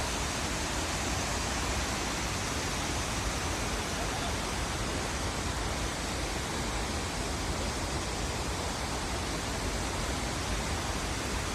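Steady, even rush of water from a large waterfall.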